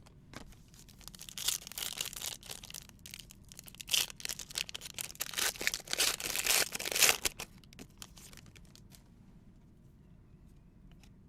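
Trading card pack wrapper being torn open and crinkled, a run of crackling rustles that stops about three quarters of the way through.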